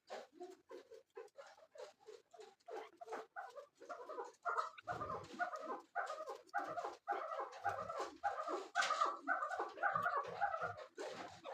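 Chukar partridge calling: a rapid, chattering run of short repeated notes that grows louder about four seconds in.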